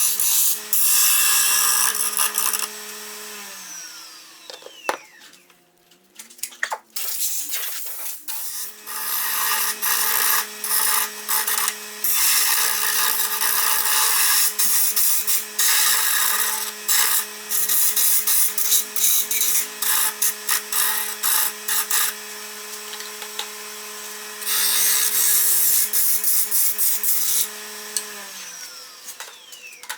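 Grizzly wood lathe running with a steady motor hum while a hand tool rasps against the spinning cedar in long passes. The lathe winds down about three seconds in, starts up again a few seconds later, and winds down once more near the end.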